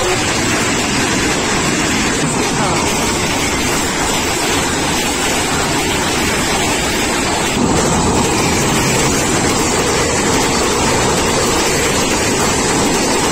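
Passenger train coaches passing close by at speed: a loud, steady rolling rush of wheels on the rails.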